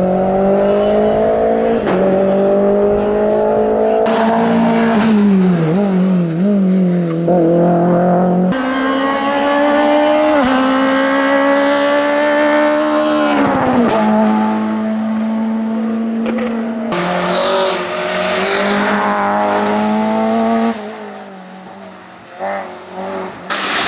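Hillclimb race car engines at full throttle, rising in pitch through each gear and dropping back at every upshift, then falling steeply under braking with downshift blips, in a run of short cuts from car to car. Near the end the sound drops for a couple of seconds, with a few short throttle blips.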